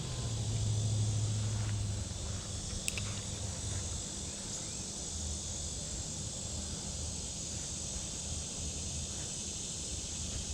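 Steady outdoor background of insects buzzing in an even, high drone. A low rumble swells over the first two seconds, and a faint click comes about three seconds in.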